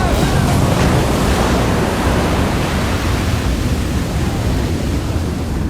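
Loud, steady rush of storm wind and breaking waves.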